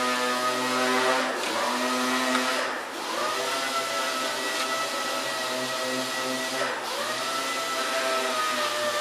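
A high-speed grinding or cutting tool whining steadily. Its pitch drops sharply and recovers three times as it is pressed into the metal and bogs under load.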